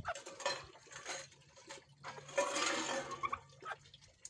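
Water splashing and pouring in irregular spells, the longest and loudest about two seconds in, over a faint steady hum.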